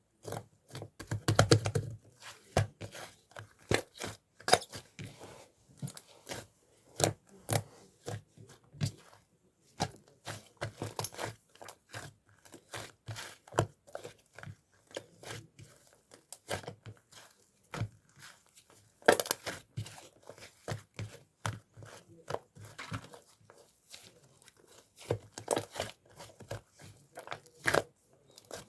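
Slime being squished and pulled by hand, giving a run of irregular sticky pops and crackles.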